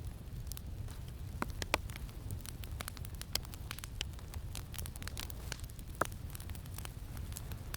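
Campfire crackling, with irregular pops and snaps, the sharpest about a second and a half in and again about six seconds in. Underneath is a steady low rumble of wind.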